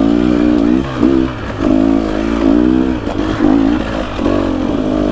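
Dirt bike engine revving up and down with the throttle, its pitch rising and dipping about once a second as the bike is ridden through ruts.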